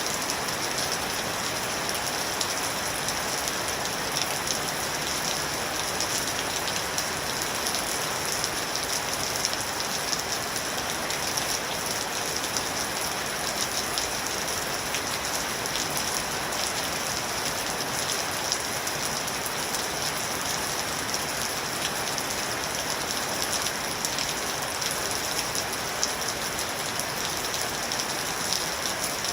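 Steady rain falling on a surface, a constant hiss with many small drop patters.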